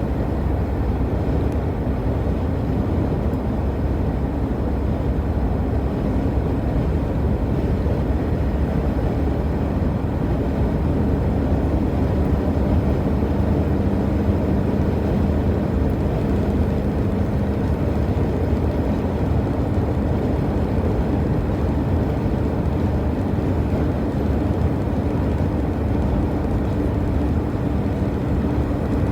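Steady road rumble and engine hum heard from inside a moving vehicle travelling at highway speed.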